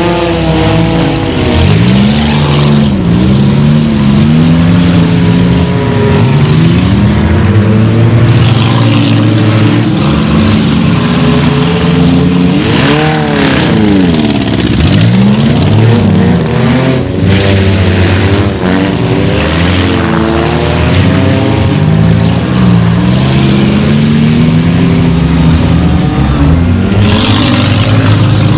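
Several derby cars' engines revving hard together, their pitch sweeping up and down again and again as they accelerate and slow on the dirt. A few short bangs, cars hitting each other, cut through.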